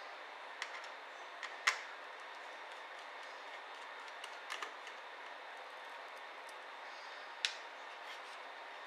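Scattered small clicks and taps of ThinkPad T60p laptop parts and tools being handled during disassembly, over a steady hiss. The sharpest click comes nearly two seconds in, with a cluster of lighter ones around four and a half seconds and another sharp one near the end.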